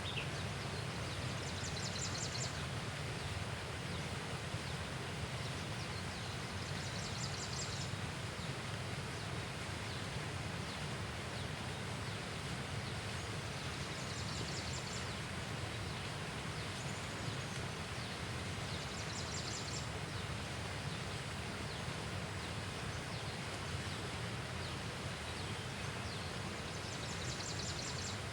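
Outdoor natural ambience: a steady background hiss with a short, high, rattling trill made of rapid pulses. The trill comes five times, about every five to seven seconds.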